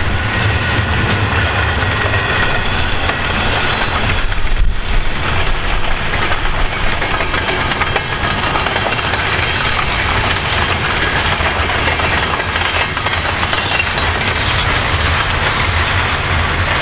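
Double-stack intermodal well cars of a freight train rolling past: a steady noise of steel wheels running on the rails.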